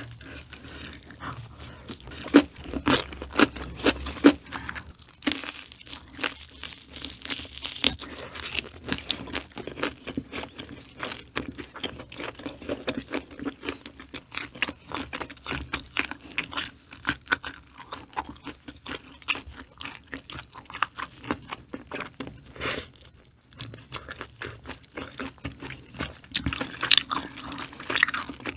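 Close-miked chewing of crunchy food: a steady run of crisp crunches and mouth sounds.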